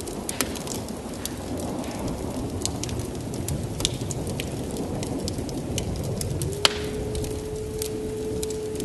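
Heavy rain falling steadily, with sharp irregular crackles and pops from a wood fire. About two-thirds of the way in, a steady tone starts and holds.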